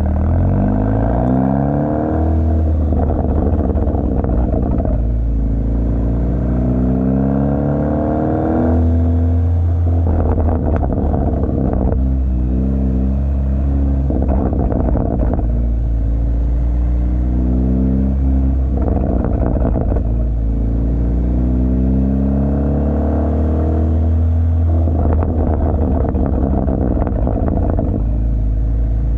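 2017 Hyundai Elantra Sport's 1.6-litre turbo four-cylinder exhaust, straight through with the second catalytic converter, resonator and muffler removed, with a deep rumble. The engine pitch rises under acceleration and drops back several times, as at gear changes.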